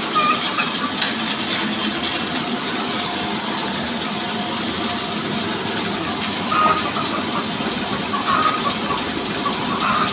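Petrol engine of a small sawmill running steadily.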